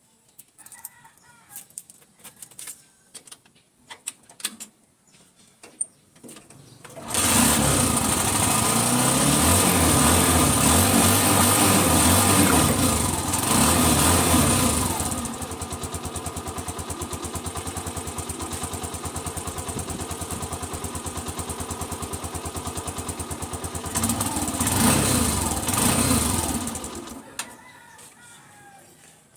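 Honda TMX 125's single-cylinder four-stroke engine catching suddenly about seven seconds in and running at raised revs, then dropping to a steady idle with even firing pulses, revving up again briefly and shutting off near the end. A few light clicks and taps come before it starts.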